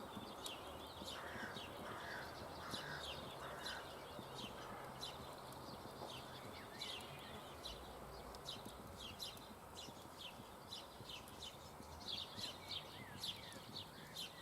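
Birds chirping: many short, high, quickly falling chirps, close together and irregular.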